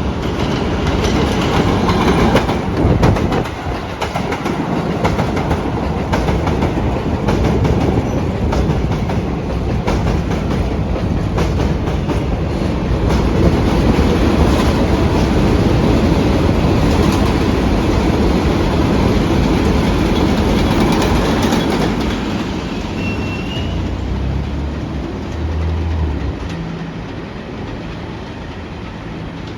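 R188 subway train running along the elevated Flushing Line tracks, its wheels clacking over the rail joints with a steady heavy rumble. The noise drops away about three quarters of the way through, leaving a quieter low rumble.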